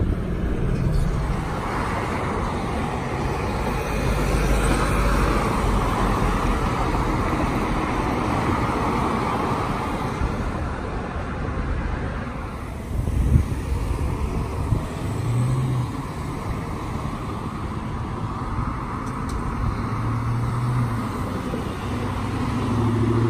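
Cars and road traffic: a steady rumble of engines and tyres, with a brief knock about thirteen seconds in.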